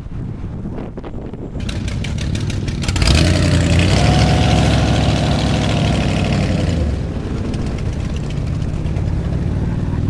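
Motorcycle engines running past on the street. One bike gets loud about three seconds in and eases off after about seven seconds.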